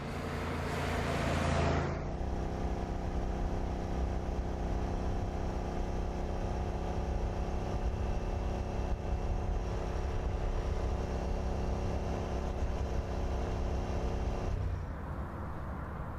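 Car engine running steadily at a constant pitch, after a hiss that swells for about two seconds and cuts off. The engine sound drops away near the end.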